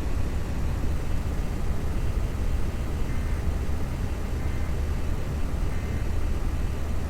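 Steady low rumble of a car driving: road and engine noise with no change in pace.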